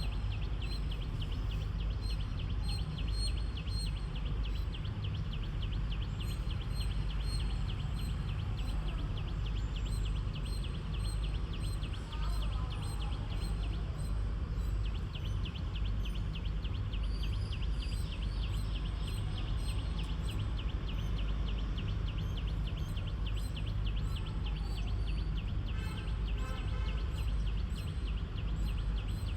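Outdoor nature ambience: a fast, steady high chirring over a constant low rumble, with the chirring breaking off briefly about halfway through. A few short chirps and calls come through now and then.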